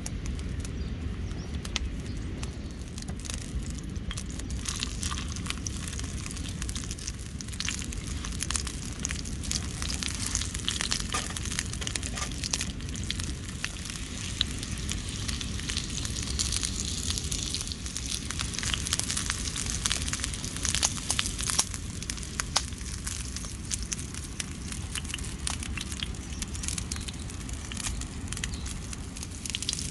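Breaded tuna cutlet frying in oil in a skillet over a wood fire: steady sizzling with many small crackling pops over a low rumble.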